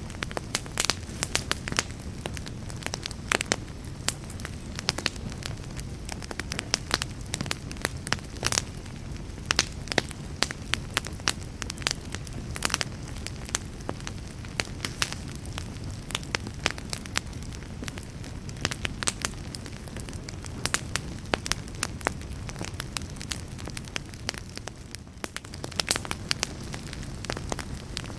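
Campfire burning with irregular sharp pops and crackles over a steady low rumble of the flames.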